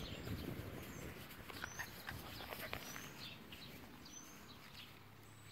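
Faint bird chirps, short high notes sliding upward about once a second, over a soft rustle.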